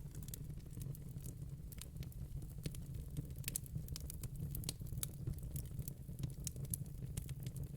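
Crackling fire: irregular small pops and snaps, several a second, over a steady low rumble.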